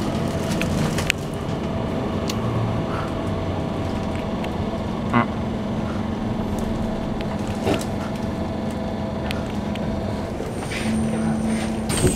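Keikyu New 1000 series train with a Toshiba IGBT-VVVF inverter running, heard from inside the car: a steady rumble with the traction motors' hum and occasional wheel knocks over rail joints, the train slowing for the station. Near the end a high thin whine comes in and begins to fall in pitch.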